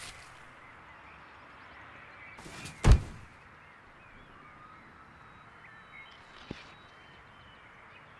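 Faint outdoor ambience with distant bird chirps, broken about three seconds in by a single loud thump, and a light tap a few seconds later.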